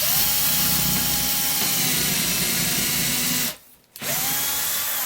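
Electric drill boring a straight hole into a piece of firewood: the motor spins up and runs steadily for about three and a half seconds, stops briefly, then runs again for a moment near the end.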